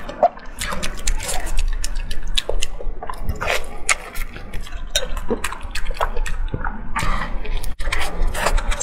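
Close-miked wet eating sounds: chewing and lip smacking on soft food in sauce, an irregular run of short moist clicks and squelches.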